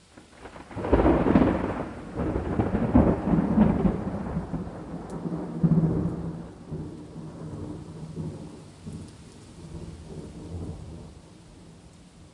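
A thunderclap breaks about a second in, crackling in several loud peals, then rumbles and rolls away over the next several seconds. Steady rain hisses underneath.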